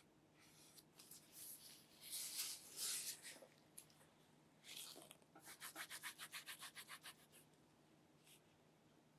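Quiet handling sounds: rubbing and scraping strokes, then a quick run of about a dozen even back-and-forth strokes, a little under ten a second.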